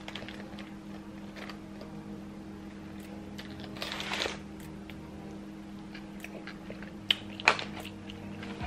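A person chewing food, with a few sharp clicks and a brief rustle about four seconds in from a fork working in an aluminium foil packet, over a steady low hum.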